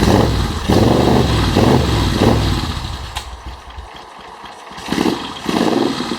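1978 Moto Guzzi V50 Mk I's air-cooled V-twin running unevenly on choke from a cold start. The revs rise and fall in a few surges, then the engine goes much quieter for about a second and a half around the middle. Near the end it picks up again and settles into a steadier idle.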